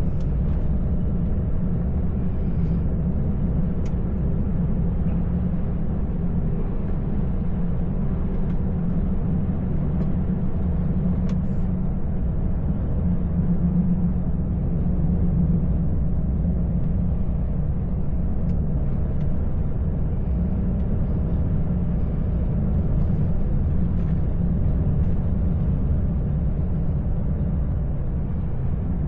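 Steady rumble of a truck's diesel engine and road noise heard from inside the cab while driving, low and unchanging throughout.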